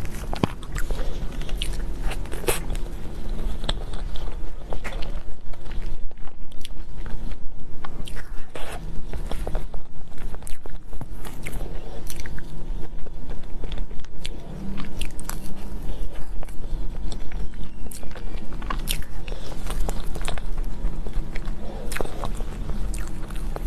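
A person biting and chewing cake and desserts close to the microphone, with steady rhythmic chewing and small sharp clicks from the mouth.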